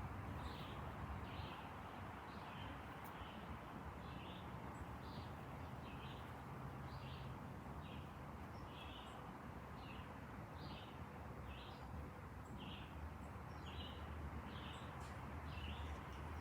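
A bird repeating one short, high call at an even pace, roughly every three-quarters of a second, over a steady low background rumble.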